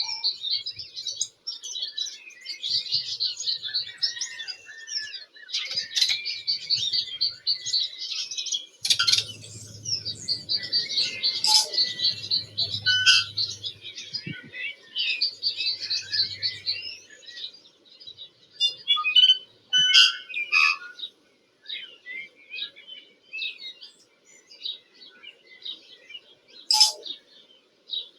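Tui singing: dense, rapid warbling trills and chirps, giving way about two-thirds of the way through to scattered short notes and sharp clicks.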